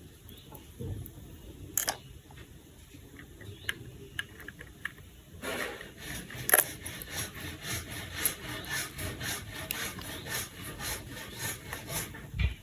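A few soft clicks, then from about halfway through a quick, even run of scraping or rasping strokes, about three a second, ending with a sharp click.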